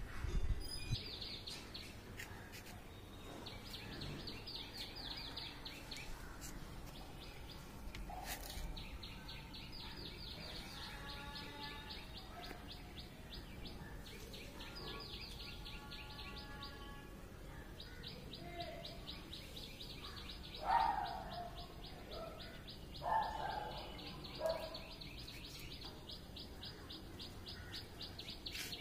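Birds chirping outdoors: a fast, steady high-pitched chatter with other short calls mixed in. A few louder, lower sounds come about two-thirds of the way through.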